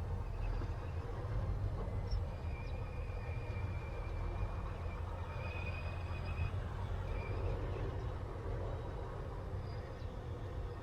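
Steady low rumble of a semi truck's diesel engine heard from the cab, with faint high-pitched tones a couple of seconds in that fade out after a few seconds.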